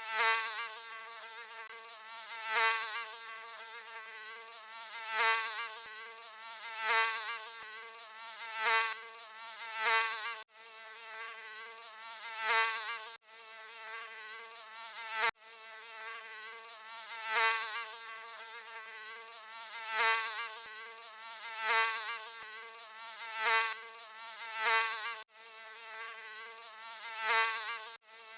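Mosquito buzzing: a continuous high-pitched wingbeat whine that swells louder every two to three seconds, as if the insect is flying past close to the ear. The whine cuts out for an instant a few times.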